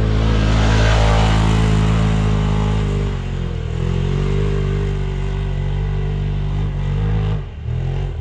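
Engine of a 2016 Polaris RZR Turbo side-by-side running at steady high revs. The pitch shifts down about three seconds in and the revs fall away near the end.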